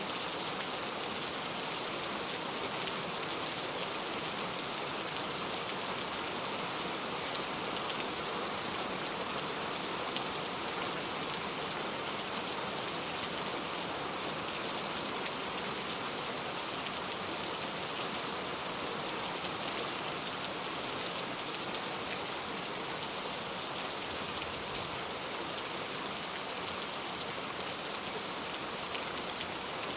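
Steady rain falling, an even hiss of many drops pattering on surfaces without let-up.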